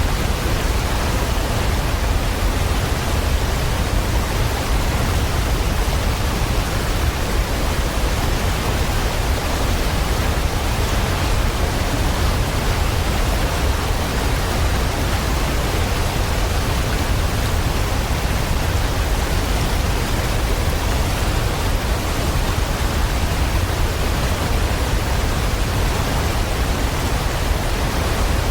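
Steady, even rain hiss with a deep low rumble, unchanging throughout; no birdsong stands out.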